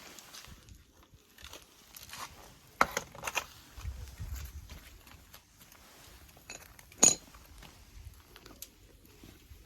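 Scattered clinks and knocks of metal objects being handled, with a quick cluster of three about three seconds in and one sharp clink about seven seconds in.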